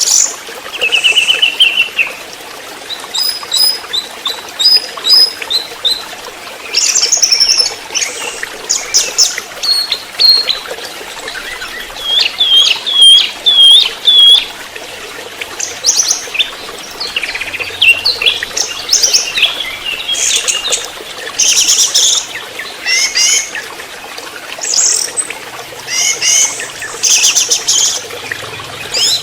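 Orange-headed thrush, speckled juvenile ('trotol'), singing a varied song of short whistled phrases and quick chattering notes, phrase after phrase with brief pauses.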